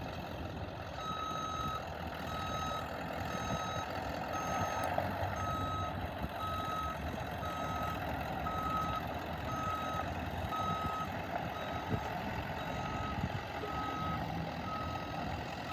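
A 1997 Ford utility truck reversing with its engine running. Its backup alarm beeps steadily about twice a second, starting about a second in.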